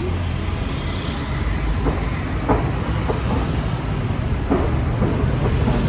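Street traffic: the steady low rumble of vehicle engines passing on a busy road, with a few brief sharp sounds scattered through it.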